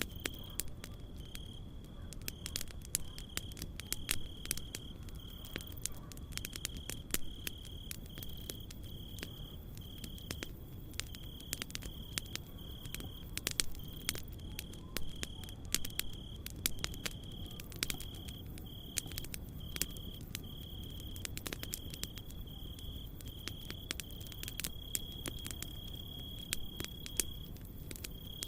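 Campfire crackling, with irregular sharp pops, while a cricket chirps in short high pulses about once a second, merging into a longer trill near the end; a steady low rumble lies underneath.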